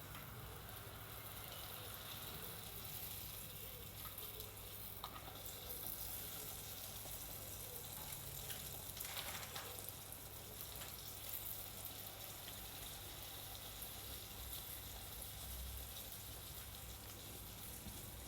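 Yeast doughnuts frying in hot oil: a steady sizzle with a few faint ticks.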